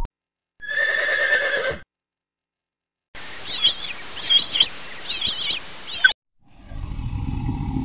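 Short animal-call clips cut one after another with silent gaps: a call of just over a second, then about three seconds of repeated high bird chirps over a noisy background, then a steady low rumble from about six and a half seconds in.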